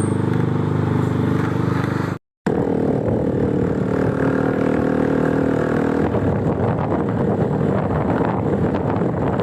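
Yamaha Mio i 125 S scooter's single-cylinder engine running steadily while riding, with a short break in the sound about two seconds in. After about six seconds, noisier wind and road rush covers the engine's tone.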